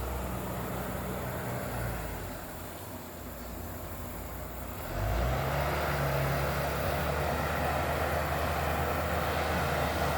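Bulldozer's diesel engine running, easing off for a few seconds, then picking up again about five seconds in and running steadily louder.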